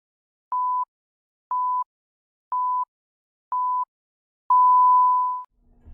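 Countdown timer beeps: four short beeps of one steady high pitch, one a second, then a longer, louder final beep that marks the start.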